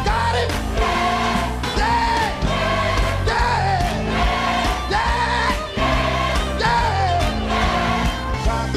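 Gospel music: a choir singing long held, wavering notes over bass and a steady drum beat.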